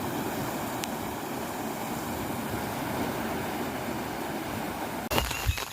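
Steady rushing of flowing water. About five seconds in it cuts abruptly to a different sound of knocks and short high chirps.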